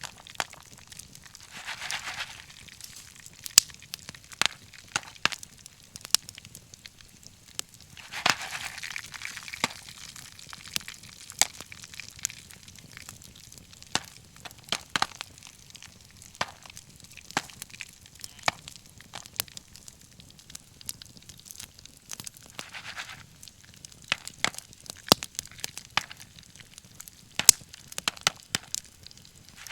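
Wood fire crackling, with frequent irregular sharp pops and snaps. A few spells of hissing lasting a second or two break in among them.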